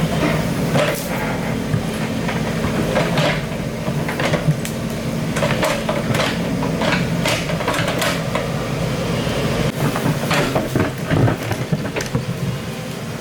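Excavator engine running steadily, with irregular metallic clanks and knocks as it digs.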